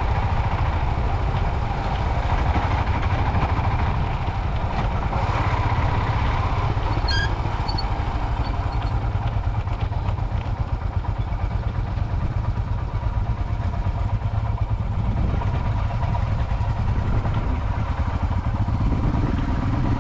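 Motorcycle engine running steadily at an even pace, a constant low rumble with road and wind noise. About seven seconds in, a few short high chirps sound over it.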